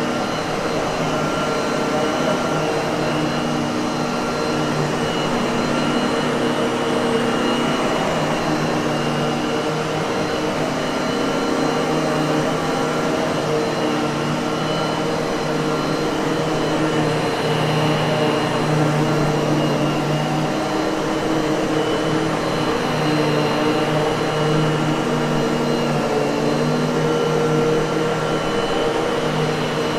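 Miele vacuum cleaner running steadily: a constant rush of air with several steady hum tones through it.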